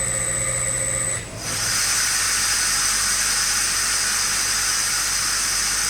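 Airquip 15 kW VSD rotary screw compressor: its steady running tone stops about a second in, and after a brief dip a loud, steady hiss of escaping air takes over. The hiss is the compressor venting (blowing down) as it stops at full tank pressure.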